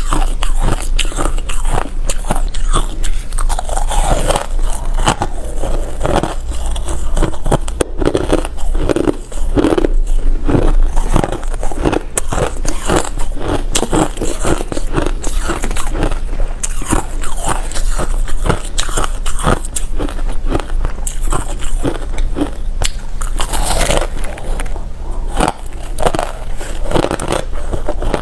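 Close-miked chewing of hard refrozen crushed ice: loud, dense crunching and crackling bites that go on without a break.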